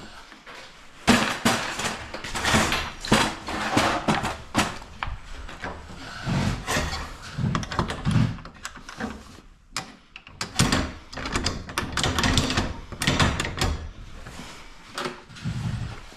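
Irregular knocking, clattering and scraping of hardware being handled, in quick uneven strikes and rubs with short pauses.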